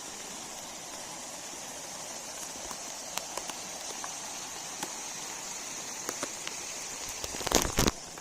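Steady rain falling, with scattered drops ticking close by. Near the end come two loud short bumps.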